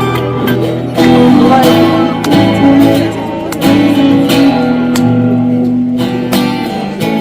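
Acoustic guitar strummed in chords, a song's instrumental opening, with sharp strokes every second or so and held notes ringing between them.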